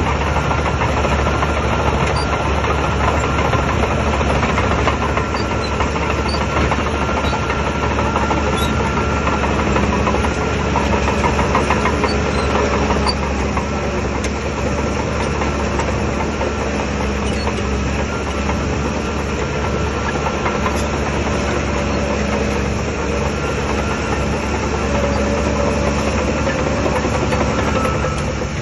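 Shantui DH17 bulldozer's diesel engine running steadily at working revs.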